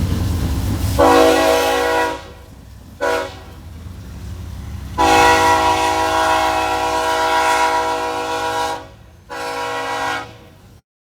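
Canadian National locomotive's air horn sounding four blasts over a passing train's low rumble: a one-second blast, a brief toot, a long blast of nearly four seconds, and a final blast of about a second. The horn sounds several tones at once.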